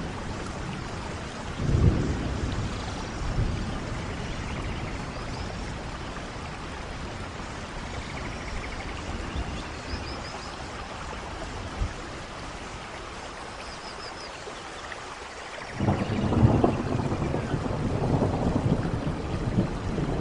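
Steady rain with thunder: a brief low rumble about two seconds in, then a louder rolling peal of thunder building near the end.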